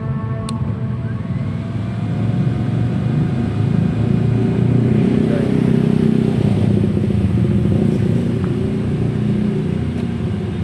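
Kawasaki ZX-25R's four-cylinder engine running through a LeoVince full-system exhaust, growing louder over a few seconds in the middle and then easing back.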